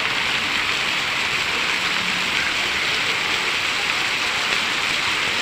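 Show fountain's water jets spraying and splashing steadily into the pool, an unbroken hiss of falling water.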